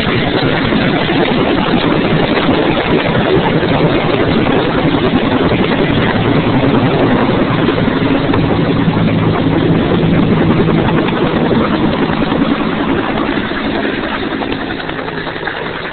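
Bell 205 helicopter's turbine and rotor running loud and steady, with a constant drone under the rush; the sound eases off over the last couple of seconds.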